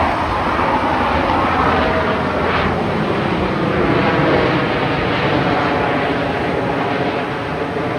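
US Navy Blue Angels demonstration aircraft flying past, a loud, steady engine roar.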